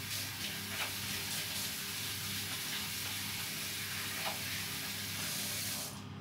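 Kitchen tap running while hands are washed under it, a steady rush of water that cuts off sharply near the end as the tap is shut.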